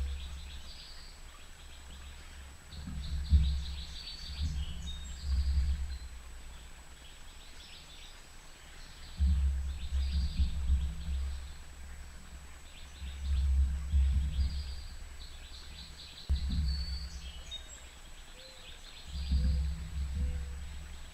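Small birds chirping and calling in short, repeated series at a bird feeder, over low rumbles that swell and fade every few seconds.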